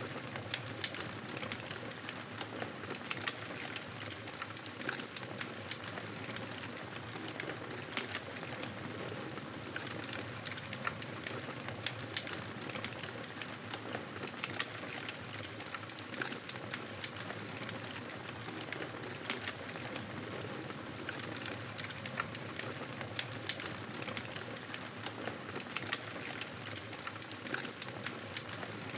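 Wood fire crackling in a fireplace: a steady soft hiss with frequent small sharp pops and snaps.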